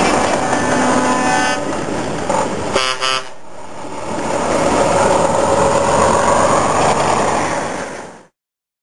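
Heavy truck running loudly, with two short blasts of its horn about three seconds in and a tone that rises and falls later on; the sound cuts off abruptly near the end.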